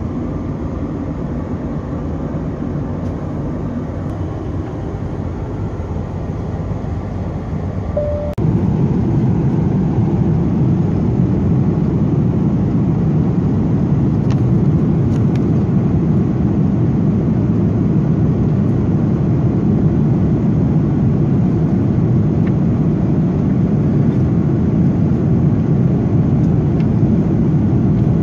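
Steady airliner cabin noise inside an Airbus A330-300 in flight: an even rush of engine and airflow noise. A short beep sounds about eight seconds in, and right after it the rush abruptly becomes louder and deeper, then holds steady.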